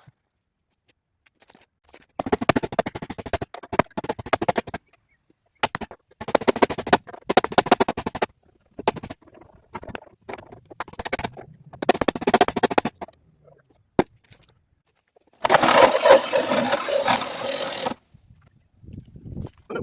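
Reciprocating saw (Sawzall) cutting through a steel car frame rail, heard as several bursts of rapid blade strokes a few seconds each, cut apart by abrupt silences.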